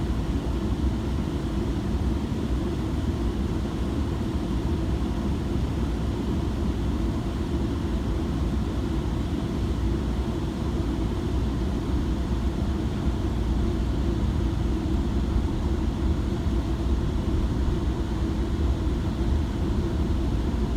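Steady low rumble inside a Metrolink passenger coach while the train is under way, even throughout.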